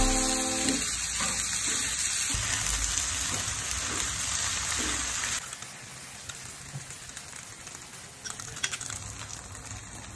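Diced carrot cake frying in oil in a pan, giving a steady sizzle. The sizzle drops to a quieter level about halfway through, and a few light clicks come near the end.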